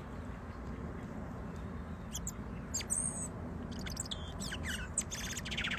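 European robin singing: a phrase of high, thin notes and quick trills, starting about two seconds in and growing busier towards the end, over a steady low background rumble.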